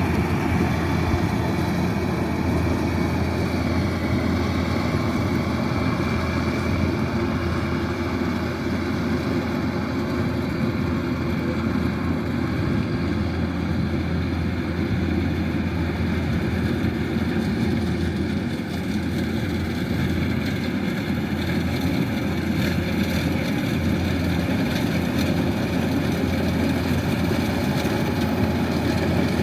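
Kubota DC-108X rice combine harvester running, its diesel engine and threshing machinery making a steady, constant drone.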